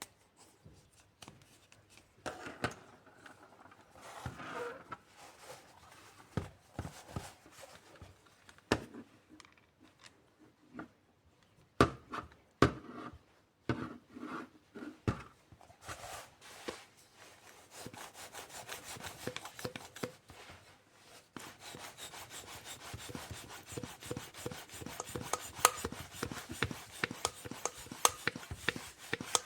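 Hand-handling noises of a small aluminium bike pump: scattered clicks and knocks at first, then from about halfway a dense run of fast scraping, rubbing strokes.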